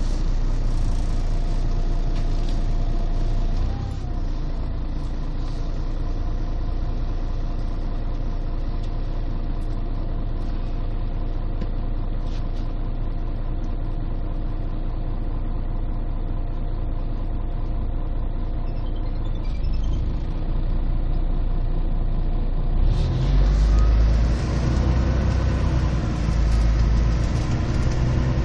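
A 1998 Scania CN113CLL city bus's Scania DSC 11 diesel engine running steadily at idle, heard from inside the bus and made bass-heavy by a partly covered phone microphone. About three-quarters of the way through it grows louder as the bus pulls away, with a whine that glides in pitch.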